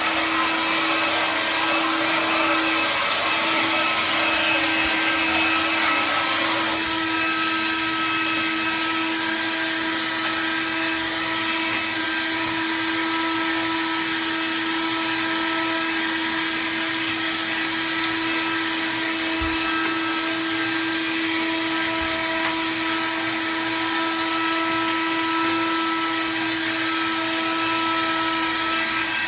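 Vax Air cordless upright vacuum running steadily as it cleans up spilled dirt, a steady motor hum over rushing air. The rushing noise eases about seven seconds in, and there are a couple of faint low knocks later on.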